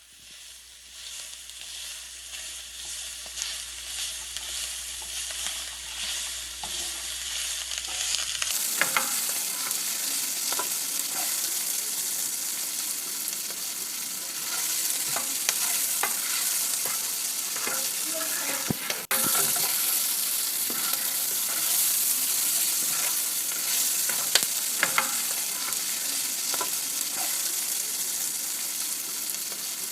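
Food sizzling as it fries in a hot pan, a steady hiss with scattered pops and crackles. It fades in over the first seconds and turns louder and fuller about eight seconds in.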